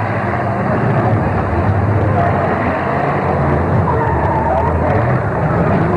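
Demolition derby cars' engines running hard, a steady loud din.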